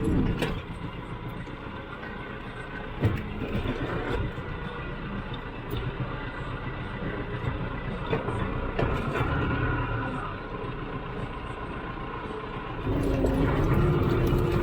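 Farm tractor engine running, with a few sharp knocks and clanks; it gets louder, with a steadier pitched note, near the end.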